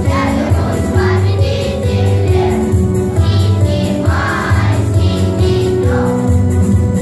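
Children's choir singing in unison over a recorded instrumental backing track, with held sung notes over a steady bass line.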